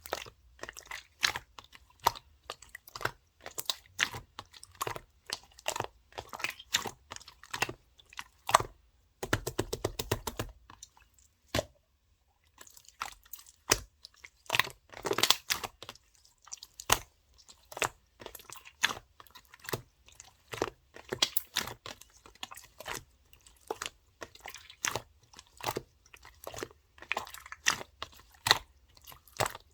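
Clear slime being squished and pressed by hand, making irregular sticky clicks and small pops of trapped air. A fast run of clicks comes about nine seconds in, followed by a brief pause.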